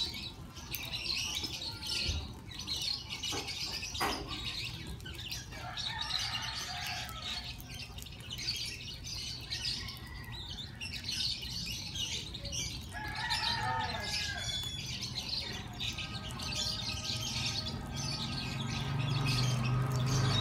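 Small birds chirping and twittering continuously, with an occasional sharp click. Near the end a low steady hum grows louder.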